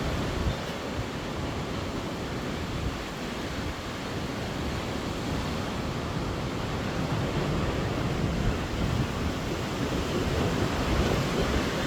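Storm wind blowing hard in a steady rush, gusting against the microphone, with the gusts growing stronger toward the end.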